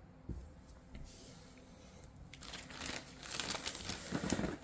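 Crinkling of plastic packaging being handled, a few faint clicks at first, then denser and louder crackling in the second half.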